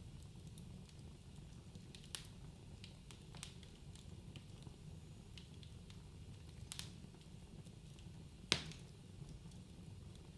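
Wood fire crackling in a fireplace: a low steady rumble of burning logs with scattered pops and snaps, the sharpest pop about eight and a half seconds in.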